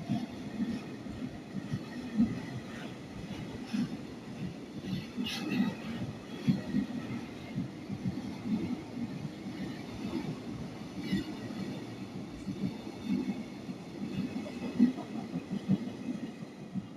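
Freight train rolling past, its wheels thumping over rail joints in a steady, uneven run of clacks, with a brief high wheel squeal about five seconds in.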